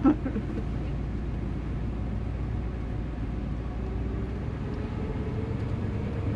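Car engine running at low revs, a steady low rumble, with a faint higher tone that slowly rises in pitch over the last couple of seconds.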